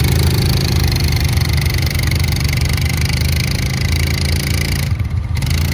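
ATV engine running steadily at a low, even speed.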